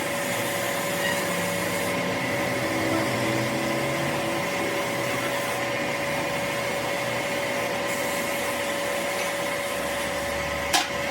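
Steady whirring machine noise with a constant high whine, and a sharp click near the end.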